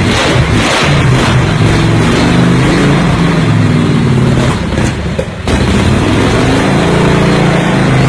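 Large-displacement motorcycle engines revving repeatedly, loud, with the pitch rising and falling; the sound drops briefly about five seconds in, then the revving picks up again.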